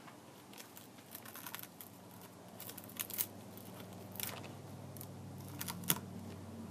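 Scattered small clicks and light scrapes from tools and plastic parts handled while a 7-inch Kindle Fire tablet is being worked on, with the sharpest clicks about three, four and six seconds in. A faint low hum grows in underneath from about two seconds in.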